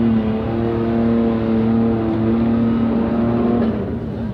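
Off-road 4x4 engine held at high revs, steady in pitch, then easing off and dropping away near the end.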